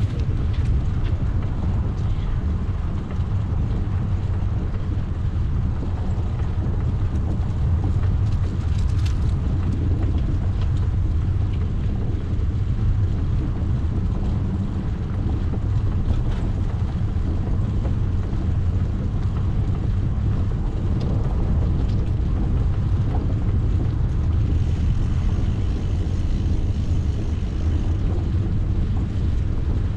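Steady low rumble of wind buffeting the microphone and road noise while riding a bicycle, with a few faint clicks and a faint high thin tone near the end.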